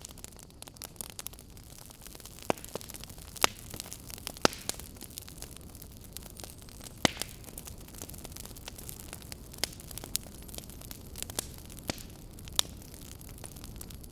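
Fire burning in a fireplace, crackling steadily under a constant soft hiss, with sharp pops scattered irregularly through it; the loudest pops come a second or more apart.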